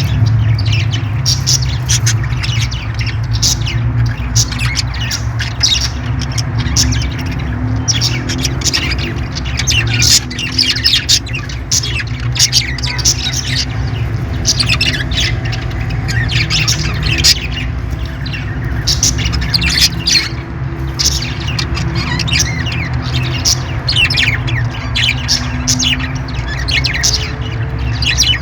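Parrots squawking and chirping, a rapid stream of short, sharp calls one after another, over a steady low hum.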